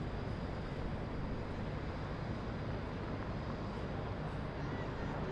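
Steady low rumble of city traffic and engines, an even wash with no single event standing out.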